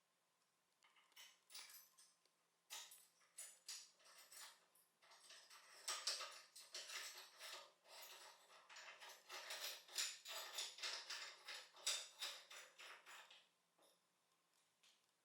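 Light handling noise of small hard parts: a busy run of clicks, jingles and scrapes that starts about a second in and stops near the end.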